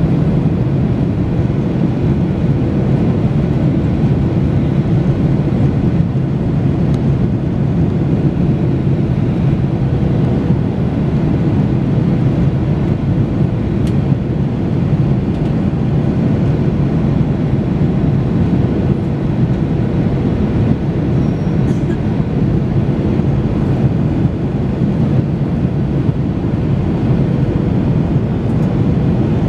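Steady cabin noise inside a Boeing 737-800 in flight: engine and airflow noise, even throughout, with a faint steady hum and a few light ticks.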